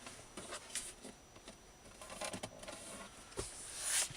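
Faint handling noise in a truck cab: scattered small clicks and rustling, with a soft hiss swelling near the end.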